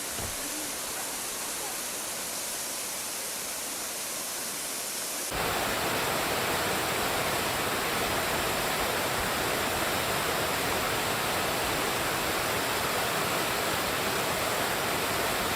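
Waterfall's rushing water, a steady full hiss with no pattern. It jumps abruptly louder about five seconds in and holds there.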